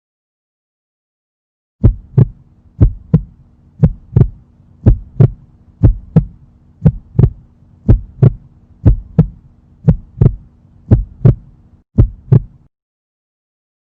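Heartbeat sound effect: a double lub-dub thump repeating about once a second, eleven times, over a low steady hum. It starts about two seconds in and stops shortly before the end.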